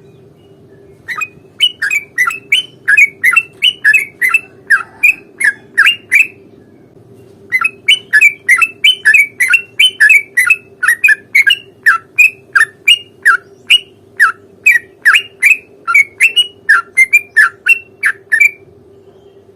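Yellow-vented bulbul singing a long run of rapid, bubbly repeated notes. It breaks off briefly about six seconds in, starts again a second later, and stops shortly before the end.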